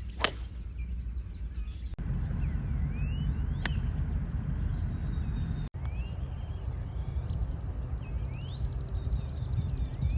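A sharp golf club strike on the ball about a third of a second in, then a fainter strike a few seconds later, over steady outdoor course ambience with birds chirping throughout and a fast pulsing insect buzz in the second half.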